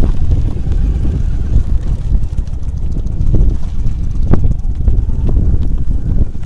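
Wind blowing on the microphone, loud and gusty, with a few sharper gusts partway through.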